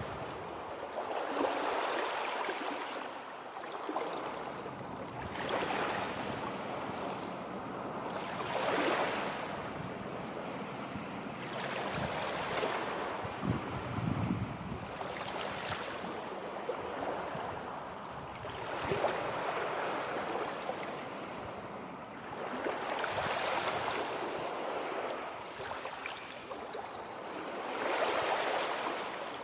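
Sea waves breaking and washing onto the shore, the surf swelling and fading about every three to four seconds.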